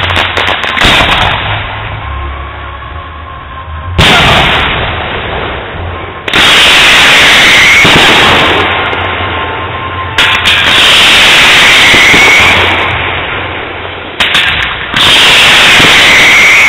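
Fireworks going off: a sudden bang about four seconds in, then three long spells of loud crackling and hissing, each with a short rising whistle near its end. The loudest spells overload the recording.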